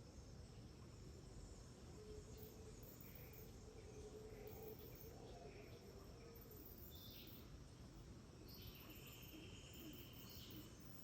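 Faint tropical rainforest dawn ambience: insects chirping in short, evenly repeated high pulses, with scattered short bird calls and a longer held bird call in the second half, over a low steady rumble.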